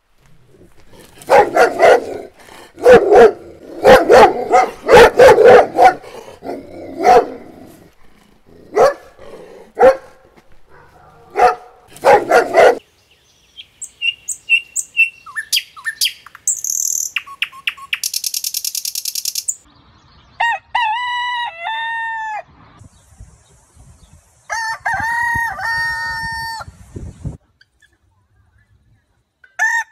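A dog barking repeatedly for about the first twelve seconds, then a few seconds of high bird calls, then a rooster crowing twice, with a third crow starting at the very end.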